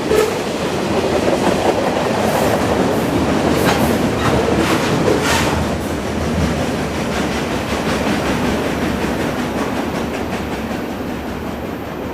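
CN freight train's cars rolling past, wheels clicking and clattering over the rail joints over a steady rumble. The clicks thin out after about halfway and the rumble slowly fades.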